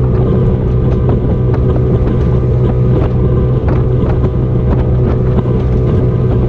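Motorboat engine running steadily while under way, a constant low hum with scattered light knocks over it.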